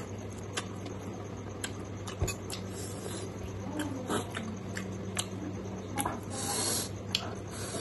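Close-miked chewing and wet mouth sounds of a man eating pork and rice by hand. Frequent sharp clicks run through it, some the clink of a metal spoon in a glass bowl, over a steady low hum.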